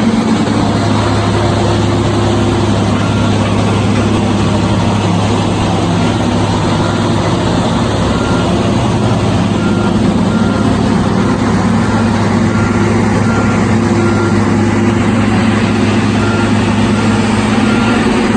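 A heavy engine running steadily at an even speed, a constant low hum that neither rises nor falls.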